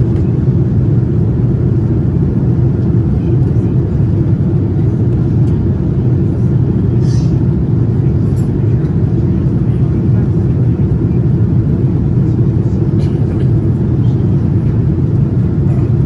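Steady low roar of a Boeing 787-9's GEnx engines and airflow, heard inside the passenger cabin, holding an even level throughout.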